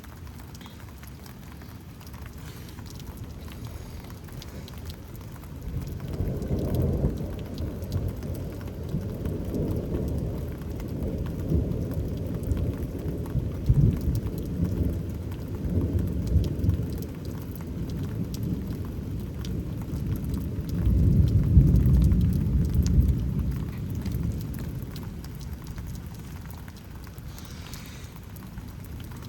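Rolling thunder rumbling after a lightning strike. It builds about six seconds in, swells loudest around twenty-odd seconds in, then fades, over steady rain.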